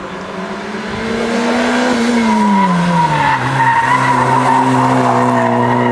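Rally car engine getting louder as the car approaches, its note dropping between about two and three seconds in, then running steady and loud.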